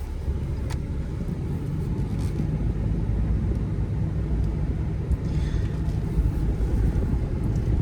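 2012 Ram 2500's 6.7-litre Cummins straight-six turbo diesel and road noise while driving: a steady low rumble that grows slightly louder.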